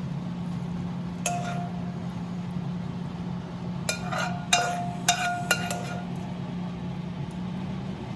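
A metal utensil clinking against a cooking pan while the food is stirred: several separate taps, each with a brief ringing note, most of them bunched together in the middle. A steady low hum runs underneath.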